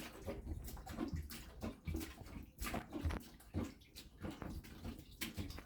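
Dirty water splashing and dripping as it drains out of a blocked washing machine's pipe, with scattered small knocks and clicks.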